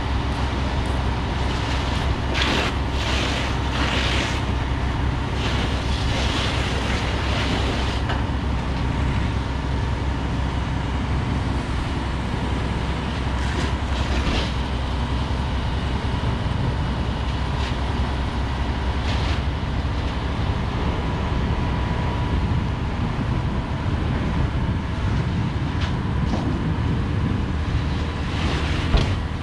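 Heavy vehicle engines running steadily, a continuous low drone, with a few brief hissing bursts in the first half.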